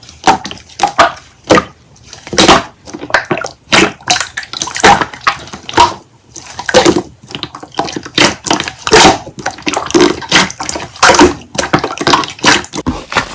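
Slime being squeezed and poked by hand, a run of irregular wet squelches and popping clicks, several a second.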